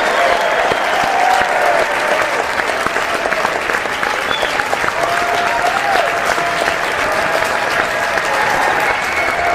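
A large audience applauding steadily, dense clapping with voices shouting above it now and then, about a second in and again around five to six seconds in.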